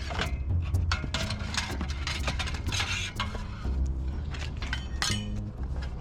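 Irregular clinking and clanking of hard objects, many sharp knocks in quick succession over a steady low rumble.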